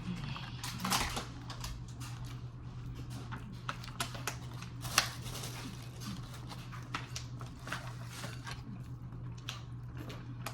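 Close-up eating sounds at a table: irregular small clicks and crackles, with one sharper click about five seconds in, over a steady low hum.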